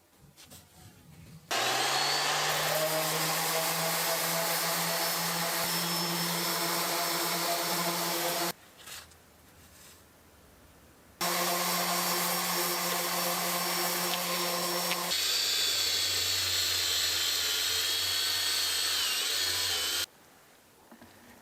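An electric power tool runs in two spells of several seconds, each starting and stopping abruptly. Its note rises briefly as it comes up to speed at the first start, and partway through the second spell it changes to a lower hum with a high whine on top.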